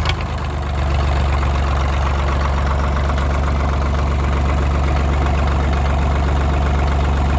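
1985 Ford 1910 tractor's three-cylinder Perkins diesel idling, just refilled with fresh oil; it settles into a steady idle about a second in.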